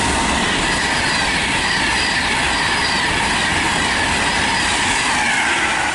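Class 390 Pendolino electric train passing through the station at speed, a loud steady rush of wheels and air with rail clatter. A faint whine sits above the rush and drops slightly in pitch near the end as the train goes by.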